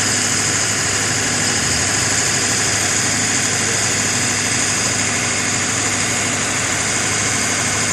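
A vehicle engine idling steadily under a constant high hiss.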